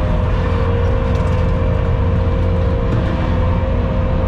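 Skid steer running steadily: a deep engine rumble with a constant whine held over it.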